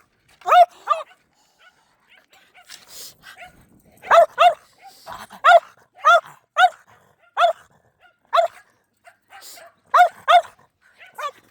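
Puppy barking: about a dozen short, high-pitched barks, often in quick pairs, with brief pauses between them.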